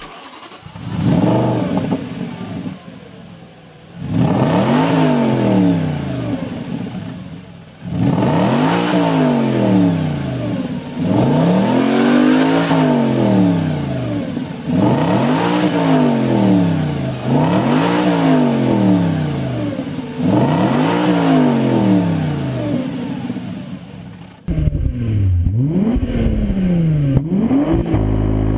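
A car engine blipped repeatedly through its exhaust: about ten revs, each rising sharply and falling back to idle, every two to four seconds. The sound changes character about 24 seconds in.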